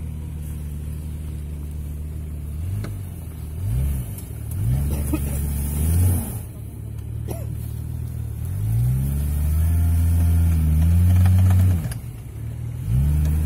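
Jeep Grand Cherokee engine revving hard as it drives off-road over frozen ground. It runs steadily at first, then gives several short rises and falls in revs, and holds a long high rev before dropping off about twelve seconds in, with another brief rev near the end.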